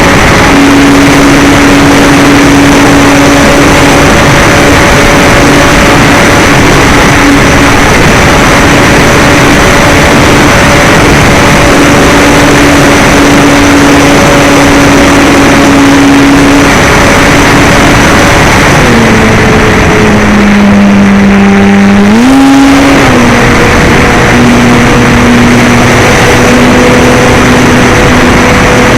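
RC model airplane's motor and propeller running at a steady pitched hum under loud, rushing noise. Throttle is cut back about 19 seconds in, dropping the pitch in steps, then opened again near 22 seconds, settling at a slightly lower hum.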